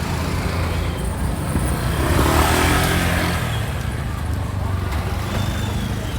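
Street traffic with motor vehicle engines running. One vehicle passes close, loudest about two to three seconds in.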